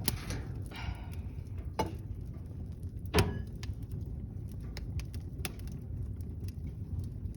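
Kindling fire in a fireplace crackling with scattered sharp pops over a steady low rumble of flames, as the small sticks catch; the loudest pop comes about three seconds in.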